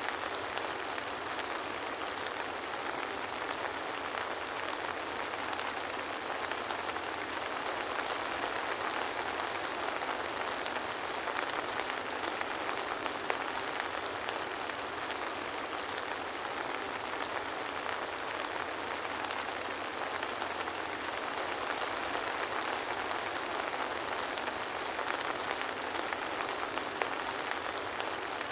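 Steady soft rain falling on a surface, an even hiss with many fine drop ticks and no thunder.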